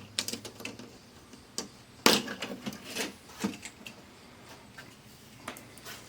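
Scattered clicks and taps of hands working loose the plastic and metal parts of an LCD TV being taken apart, the loudest a sharp knock about two seconds in.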